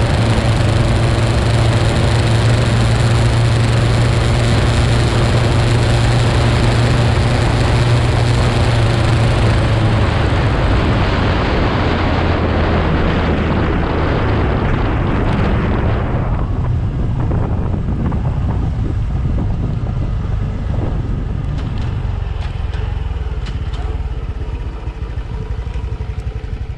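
Honda CT125's single-cylinder engine running while the bike is ridden, with heavy wind noise on the microphone. About two-thirds of the way through, the wind and engine noise fall away as the bike slows, leaving a lower engine rumble.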